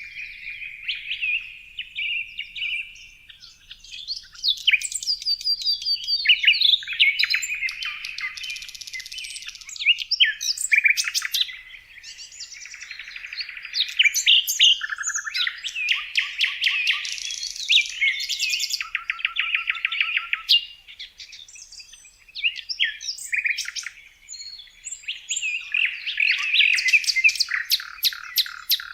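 Songbirds chirping and singing in a near-continuous chorus, with several calls overlapping: fast trills, rapid twittering and short whistled notes, broken by a couple of brief lulls.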